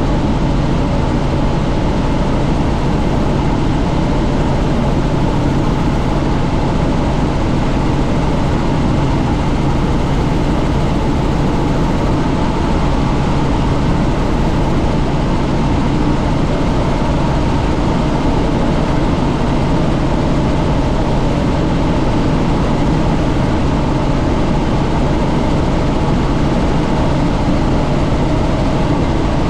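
Helicopter in flight: a steady, loud drone of rotor and engine mixed with rushing wind noise, unchanging throughout.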